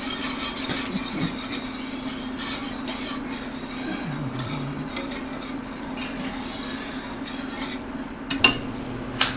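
A spoon stirring and scraping in a pan of reducing sauce, over a steady low hum. Two sharp clinks come near the end.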